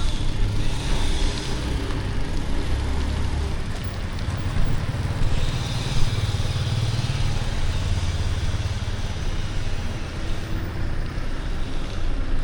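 City street traffic: motorbike and car engines running, a steady low rumble that swells as vehicles pass, with one brief knock about halfway through.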